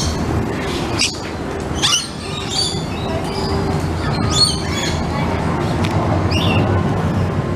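Birds giving short, high squawking calls several times, over a steady low rumble.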